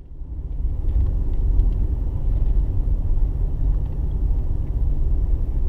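Steady low road rumble of a car being driven, heard inside the cabin, fading in over the first second.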